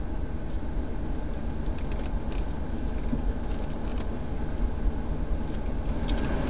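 Steady low rumble of a 1979 Mercedes-Benz 450SL's V8 idling, heard from inside the cabin, with a few faint clicks.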